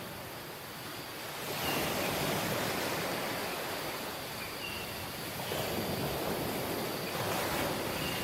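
Sea waves washing onto a tropical beach, a steady hiss that swells with a wave about a second and a half in and again in the second half.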